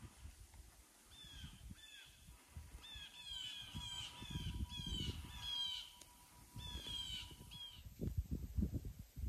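A bird giving a run of short, harsh calls, each falling in pitch, about a dozen in two bursts with a short break in the middle. Under them is an uneven low rumble that swells near the middle and again near the end, like wind buffeting the microphone.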